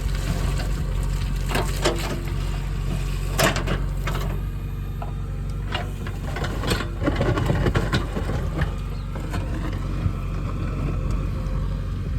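Diesel engine of earthmoving machinery running steadily, with repeated sharp knocks from the digging and loading work.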